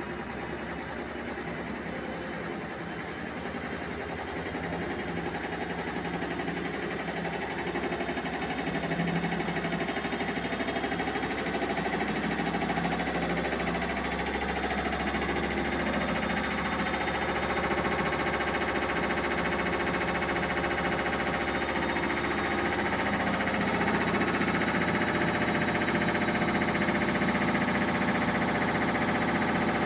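Primus 12 kg commercial washer drum speeding up in its final spin toward 900 rpm, with a fast rhythmic knocking and vibration from a badly unbalanced load. It grows steadily louder as the drum gains speed.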